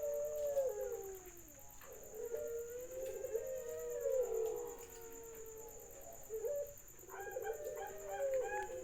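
Several doves cooing over one another, long drawn-out coos at much the same pitch, some sliding down at the end, with a busier stretch of overlapping calls near the end. It is a lure recording of cooing doves, played to get caged doves calling.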